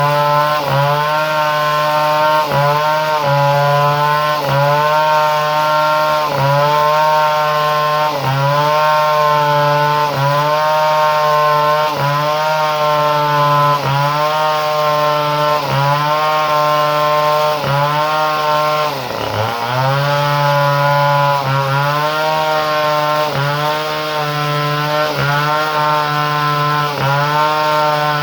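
Chainsaw engine running fast, its pitch dipping and picking up again about once a second, with one deeper drop about two-thirds of the way through.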